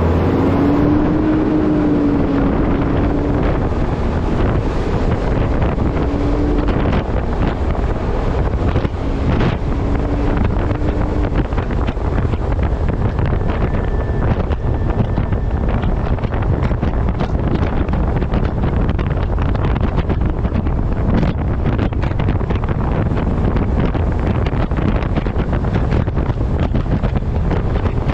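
Steady wind buffeting the microphone of a camera strapped to the front of a moving truck, with road and engine noise underneath. A low drone wavers in pitch during the first ten seconds or so.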